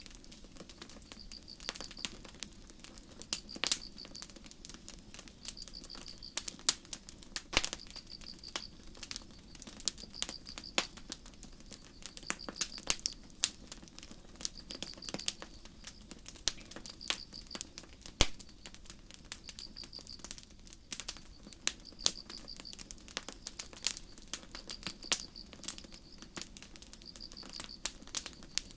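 Campfire crackling with frequent sharp pops and snaps, over crickets giving short, high, pulsed chirps at a regular pace of roughly one every second and a half.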